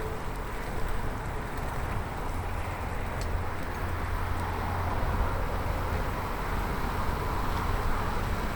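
Riding a bicycle on a road: steady rush of air and tyre noise with a low rumble, swelling from about halfway through to near the end.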